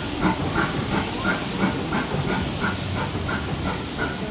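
Narrow-gauge steam locomotive hissing steam, with a steady, even beat about three times a second.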